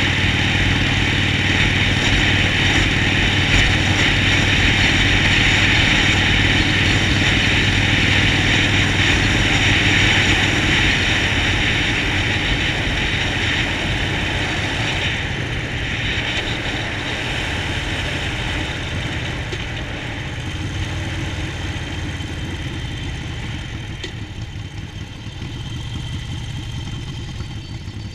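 Harley-Davidson Sportster Forty-Eight's air-cooled 1200 cc V-twin engine running steadily, growing gradually quieter through the second half.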